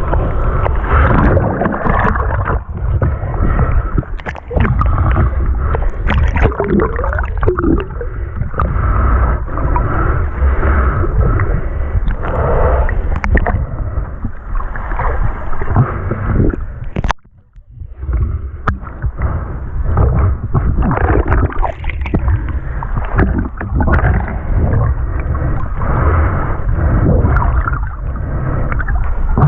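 Sea water sloshing and gurgling, with irregular small knocks and splashes; it drops out briefly about 17 seconds in.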